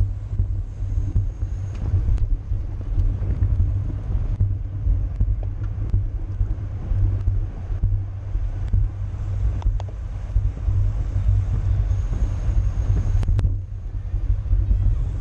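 Wind buffeting the microphone at bicycle racing speed: a heavy, fluctuating low rumble, with a few faint clicks.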